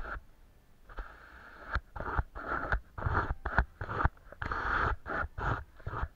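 Paintbrush strokes brushing and scraping on paper in a quick, irregular series, with small taps and knocks between strokes.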